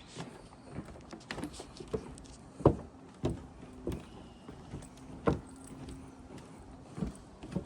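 Footsteps of a person walking, a thud roughly every two-thirds of a second, uneven in strength.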